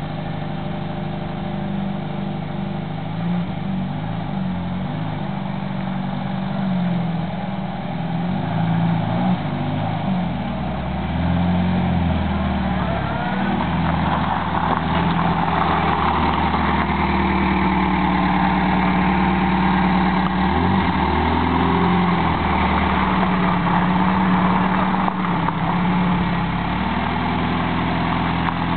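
Small hatchback car's engine running at low speed as the car creeps forward under light throttle, its note wavering up and down. It grows louder about a third of the way in as the car comes closer.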